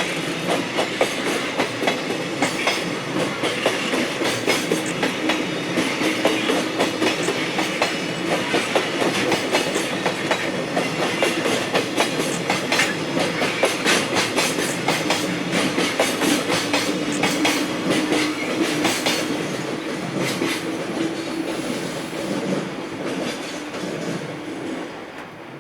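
Koki container wagons of a freight train rolling past, their wheels clacking over rail joints in a quick, irregular rhythm over a steady rumble. The sound fades in the last few seconds as the train pulls away.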